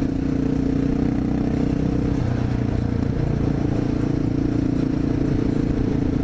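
Honda XR650L's single-cylinder four-stroke engine running at a steady road speed. The engine note shifts about two seconds in, then holds steady again.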